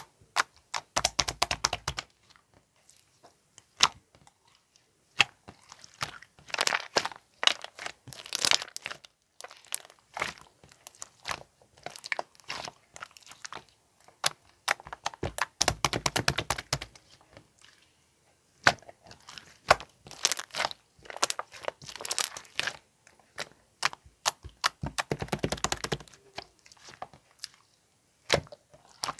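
Clay slime being squeezed and pressed by hand, giving runs of dense crackling and popping clicks, with single sharp clicks and short pauses between them.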